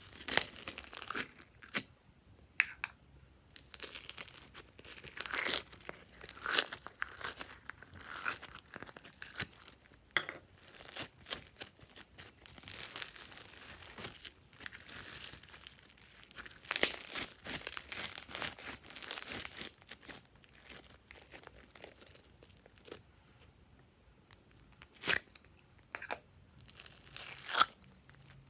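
Slime being stretched, folded and pressed by hand, giving a dense run of irregular sharp crackles and pops.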